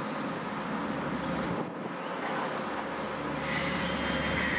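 A Metro Trains Melbourne X'trapolis electric train running along the track, growing louder over the last second or so.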